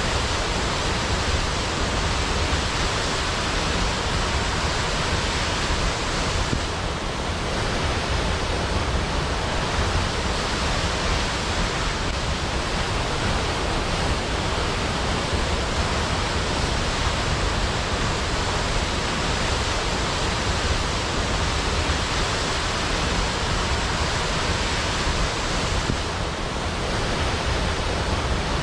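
Waterfall: a steady, even rush of falling water that sounds much like white noise, dipping slightly twice.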